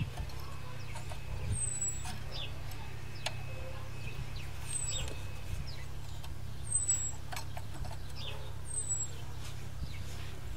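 Light clicks and taps of mower parts being handled, over a steady low hum. A short, high, falling chirp repeats about every two seconds.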